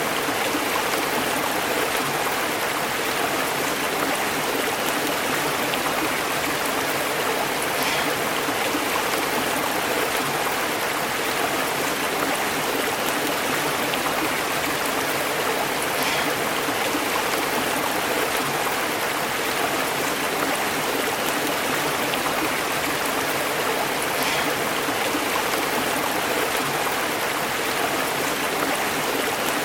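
A stream burbling steadily as it flows over rocks, a continuous rush of water.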